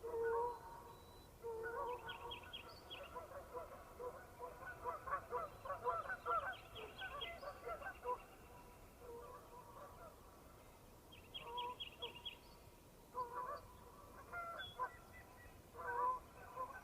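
A flock of geese honking, many overlapping calls in dense bouts with a thinner stretch in the middle.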